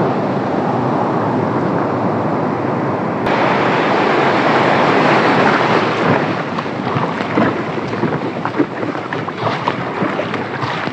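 Sea surf and breaking waves rushing and splashing around a kayak crossing the waves off the shore. A louder, hissier rush sets in about three seconds in, followed by irregular splashes.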